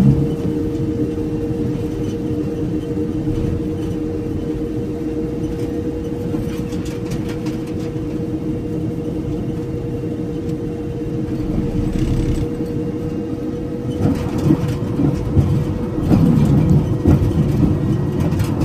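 Steady road and engine noise of a truck driving, heard from inside the cabin, with a continuous low hum; it gets busier and a little louder in the last few seconds.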